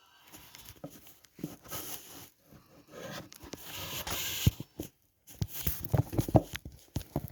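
Irregular rustling and rubbing noises, strongest about three to four seconds in, with scattered knocks and taps that crowd together near the end.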